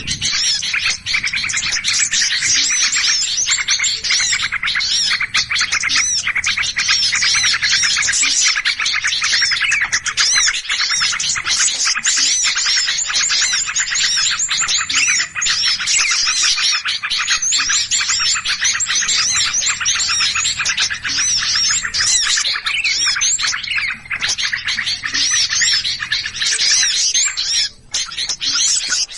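Dense, continuous chorus of many small songbirds chirping and calling agitatedly over one another, the excited noisy calls used as a bird-trapping lure sound.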